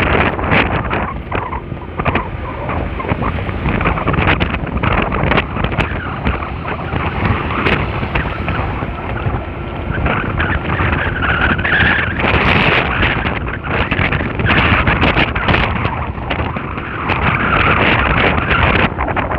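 Loud, gusting wind buffeting the microphone of a rider on a moving motor scooter, with road noise underneath.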